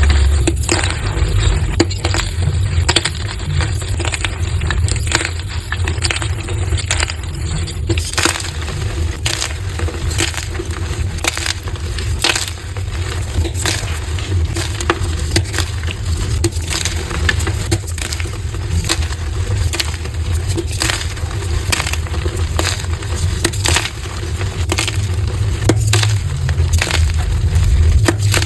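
Gym chalk blocks being crushed and crumbled: a dense, unbroken run of crunches and crackles, played back at double speed. The sound changes character about eight seconds in.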